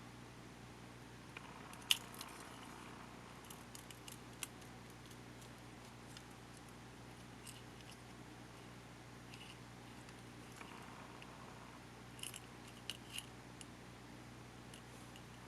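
Small scattered clicks and taps of tools and small parts being handled during the disassembly of a digital video camera, with a sharper click about two seconds in and a quick run of clicks near the end, over a low steady hum.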